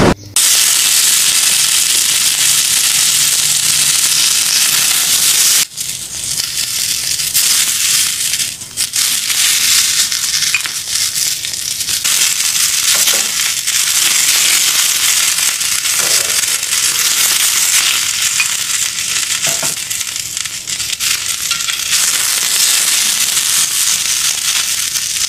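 Romaine lettuce sizzling in hot oil on a griddle over a charcoal fire, a loud steady hiss with a brief break about six seconds in.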